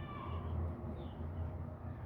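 A pet cockatiel giving a few short, faint chirps over a steady low hum.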